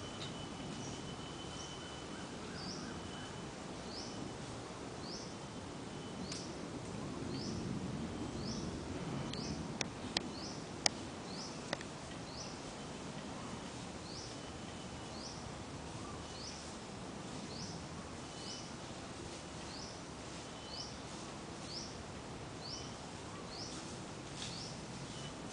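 A bird repeating one short high chirp at an even pace, about every three quarters of a second, over a low outdoor background hum. A thin steady whine comes and goes beneath it, and a few sharp clicks sound about ten seconds in.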